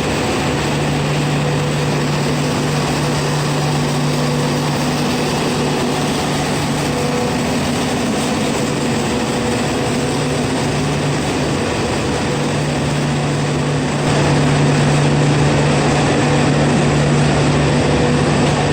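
Train at the platform with its engine running, a steady low drone with a constant hum, a little louder from about fourteen seconds in.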